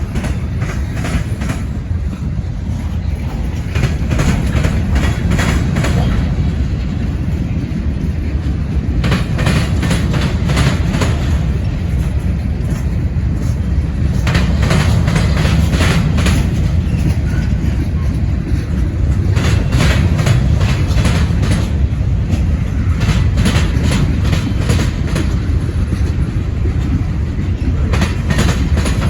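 Freight train of tank cars rolling past close by: a steady low rumble of wheels on rail, with a cluster of clicks as each car's wheels cross the rail joints, recurring every four to five seconds.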